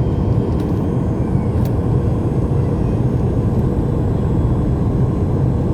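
Steady low rumble of a Boeing 737 MAX 8 in flight, heard from inside the cabin: its CFM LEAP-1B engines and the airflow over the fuselage during the approach.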